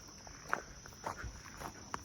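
Footsteps of people walking: a few soft, unevenly spaced steps over a steady faint high hum.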